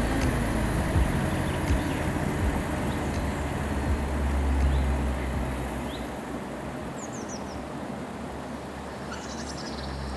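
Low, steady rumble of car engines idling, fading down over the last few seconds, with a few short bird chirps about seven seconds in.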